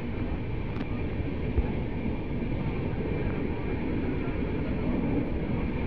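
Steady rumble of a moving passenger train heard at an open coach doorway: wheels running on the rails and rushing air, with the coaches of a train alongside sliding past. A single sharp knock about a second and a half in.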